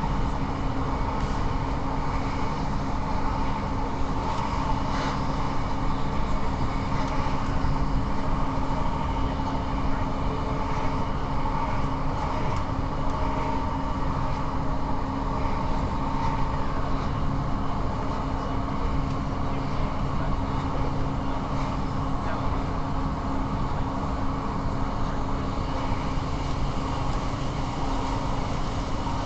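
Inside a Class 158 diesel multiple unit running at speed: a steady drone of the underfloor diesel engine and the wheels running on the track, with a few held hum tones.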